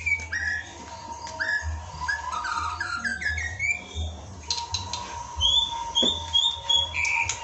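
Songbird singing: fast strings of sliding chirps and whistles, a brief rattle about halfway through, then a run of about four high repeated whistled notes near the end.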